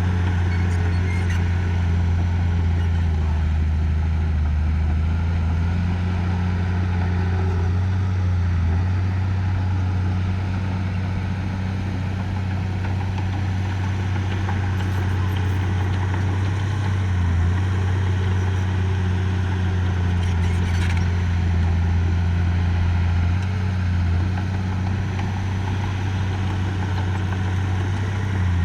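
Heavy construction machine's engine running steadily with a low drone, its pitch dipping briefly a few times.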